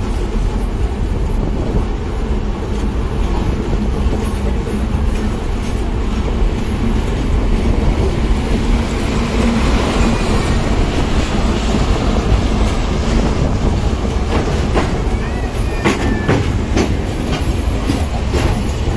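Passenger express train running at speed, heard from an open carriage door: a steady rumble of wheels on rails, with a run of sharp clicks near the end.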